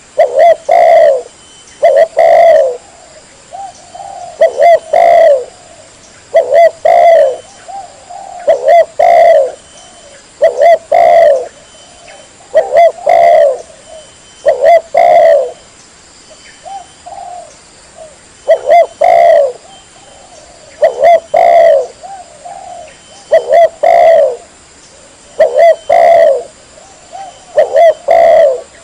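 Spotted dove (tekukur) cooing loudly and clearly, phrase after phrase of a few coo notes about every two seconds, with a softer single note between some phrases.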